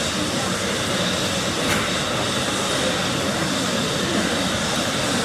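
An Embraer E190's General Electric CF34 turbofan engines running steadily at idle on the ground before taxi. The sound is a loud, even rush with a faint steady high whine.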